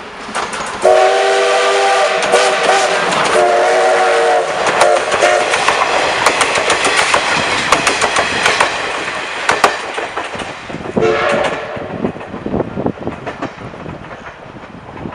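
Double-headed steam locomotives passing, whistles blowing several long chord-like blasts with short breaks from about a second in to about five seconds, then one more short blast about eleven seconds in. Under the whistles, exhaust and wheel clatter swell as the train goes by and fade near the end.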